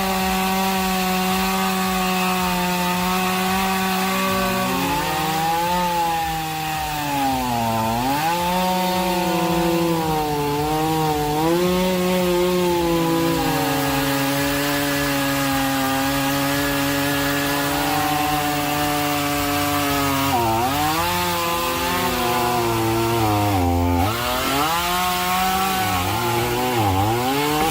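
Chainsaw running at high revs while cutting wood, its engine note dipping sharply under load several times, around 8, 20, 24 and 27 seconds in, and recovering each time.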